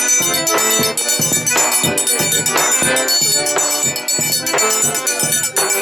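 Live forró pé-de-serra played without singing: an accordion melody over a steady zabumba drum beat, with a triangle ringing.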